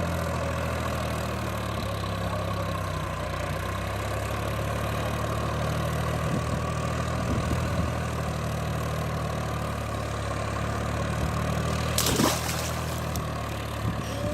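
Tractor engine running steadily at a low, even pitch, with a brief burst of noise about twelve seconds in.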